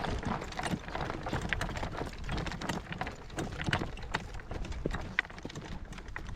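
Hoofbeats of a Morgan horse walking in harness, an uneven run of sharp clip-clops a few times a second, with wind buffeting the microphone as a steady low rumble.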